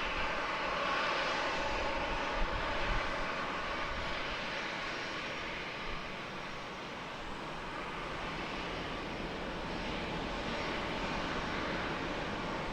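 Jet engines of a Boeing 737-800 airliner at takeoff power on its departure roll, a steady rushing roar that eases slightly midway and builds again toward the end.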